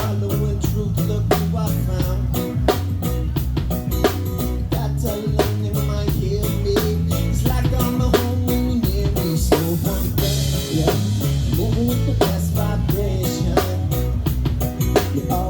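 A live band playing an instrumental passage: a drum kit keeps a steady beat over a moving bass line and guitar, with a cymbal wash about ten seconds in.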